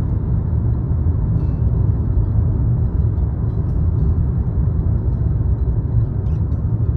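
Steady low rumble of tyre and engine noise heard inside a car's cabin while driving along a highway.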